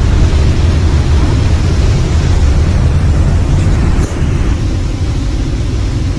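Waterfall rushing loudly and steadily, a deep unbroken roar of falling water.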